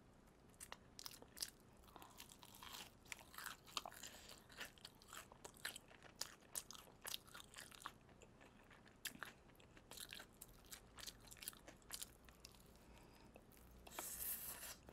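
Crunching and chewing of crispy fried chicken: faint, irregular crisp crunches of the fried crust being bitten and chewed, several times a second.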